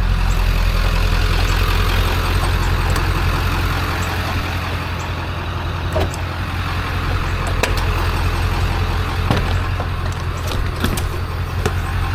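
Vehicle engine idling steadily, with a few short sharp knocks over the idle, about four in the second half.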